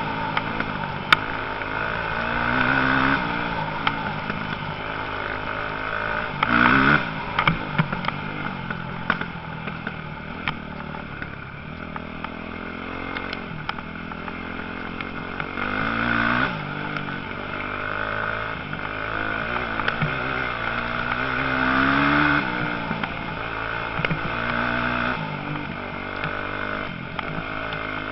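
Several motocross bikes racing, engines revving up and dropping back again and again with overlapping swells as they pass, loudest about six to seven seconds in.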